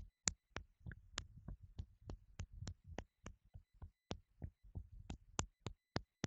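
Open palm slapping on the body, qigong self-clapping along the shoulder and arm, in a steady run of light slaps about three a second.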